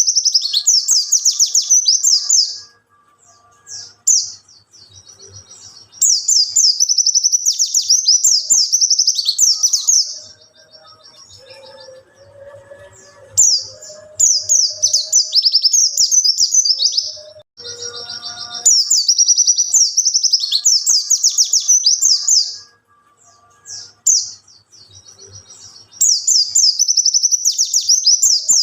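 Wild white-eye (pleci) singing: loud, high, rapid warbling phrases in bouts of about two to four seconds, five times, separated by short pauses.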